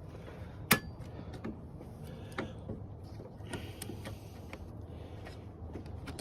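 Scattered light clicks and knocks of hands refitting radiator hoses in a car's engine bay, with one sharp click just under a second in, over a steady low hum.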